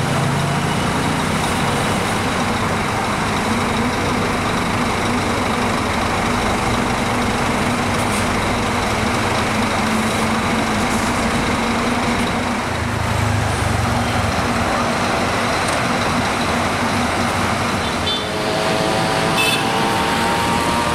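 Scania K410iB double-decker coach's rear-mounted diesel engine running as the bus moves off slowly, a steady drone with street traffic around it. Near the end a rising whine joins in as a vehicle speeds up.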